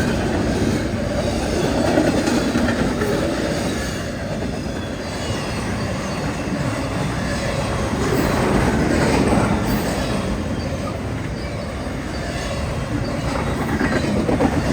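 A train rolling past: a steady rumble of wheels on rails with some wheel squeal, swelling and easing as the cars go by.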